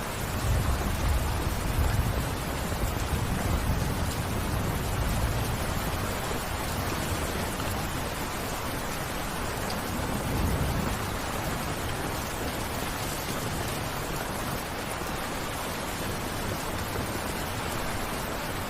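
Steady, dense rain falling, with a deep low rumble swelling up in the first few seconds and again about ten seconds in.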